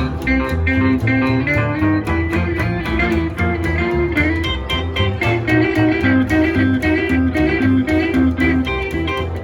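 Live band playing an instrumental break in a honky-tonk song: a lead guitar takes the melody over a steady bass line and beat.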